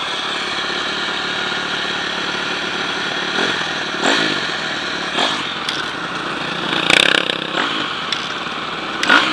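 Motocross bike engines running, with several short revs rising in pitch and a louder burst about seven seconds in.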